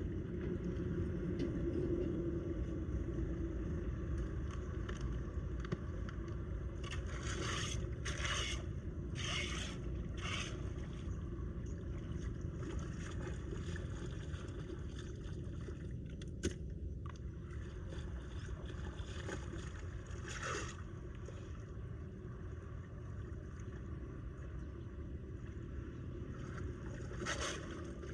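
Steady low rush of floodwater draining into a storm drain, broken by short scraping sounds: a cluster of four about a quarter of the way in, one more past the middle and a couple near the end, with a single sharp click in between.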